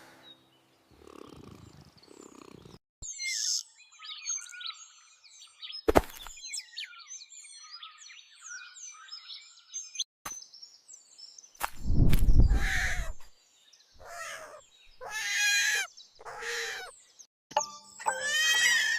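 Birds chirping in a quick run of short calls, then a single sharp knock. About twelve seconds in comes a loud low sound, followed by several pitched animal calls and a warbling call near the end.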